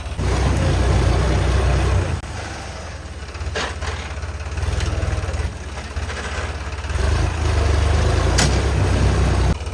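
Sonalika DI-35 tractor's diesel engine running under varying load, its level rising and falling, with a couple of sharp metallic knocks.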